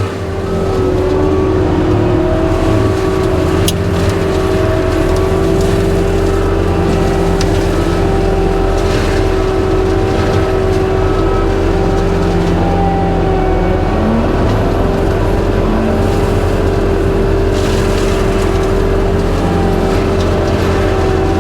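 Skid steer diesel engine running steadily at high throttle while driving a forestry mulcher head, with a steady whine over the engine drone and a few sharp ticks.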